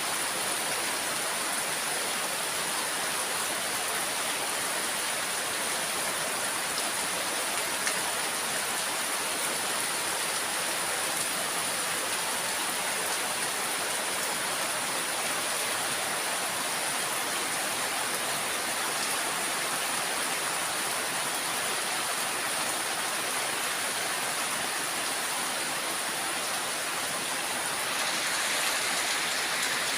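Steady heavy rain pouring down, growing a little louder near the end.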